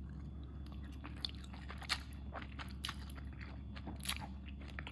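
A person chewing a mouthful of spaghetti in tomato vodka sauce close to the microphone: soft, scattered mouth clicks over a steady low hum.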